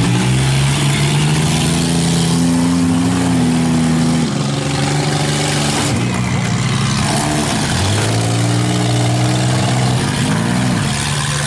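Demolition-derby minivan and SUV engines revving hard at high throttle. The pitch drops and climbs again several times as the cars shove and back off.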